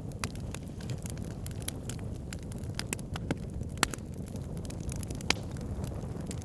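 Wood fire burning in a fireplace: a steady low rumble of flames with frequent sharp crackles and pops, the loudest snaps a little under 4 seconds and a little over 5 seconds in.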